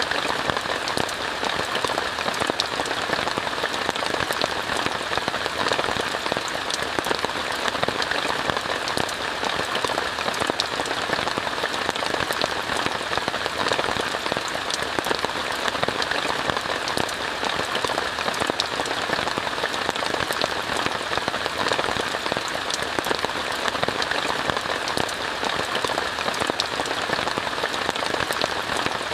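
Steady rain falling on a tent, heard from inside, with many individual drops ticking over an even hiss.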